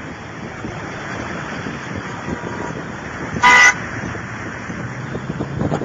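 A car horn sounds once, a short loud blast about halfway through, over a steady hiss of heavy rain and traffic on a wet road.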